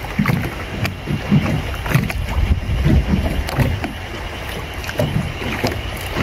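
Sea water slapping and lapping irregularly against the hull of a small boat, in uneven low splashes every half second or so.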